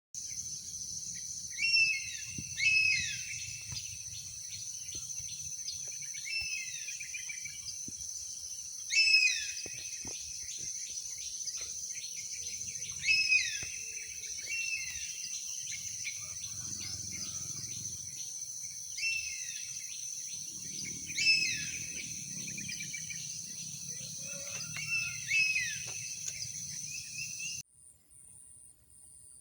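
Forest ambience: a steady, high-pitched insect drone with a songbird calling over it in short repeated phrases of chirps, about a dozen times. The sound cuts off suddenly near the end.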